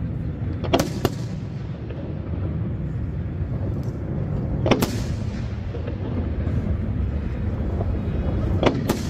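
Aerial firework shells bursting: two sharp bangs in quick succession about a second in, a single bang near the middle, and another close pair near the end, over a steady low rumble.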